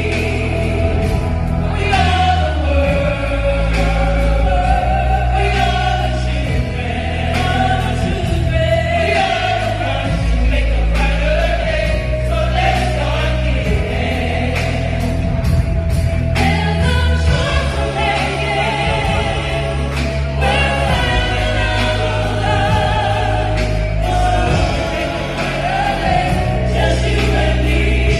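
Gospel music: a choir singing with a steady bass accompaniment.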